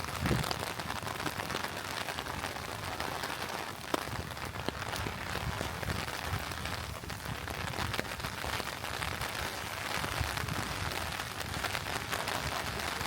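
Steady rain falling, a continuous hiss with scattered sharp ticks of single drops.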